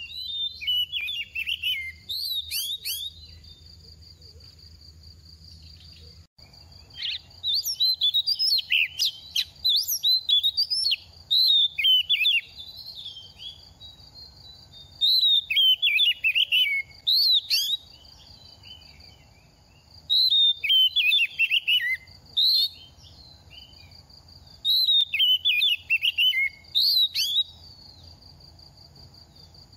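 Oriental magpie-robin singing in several bouts of quick, varied whistled phrases, with pauses of a few seconds between bouts; the bird is in moult. A steady high buzzing drone runs underneath and drops out for a few seconds near the start.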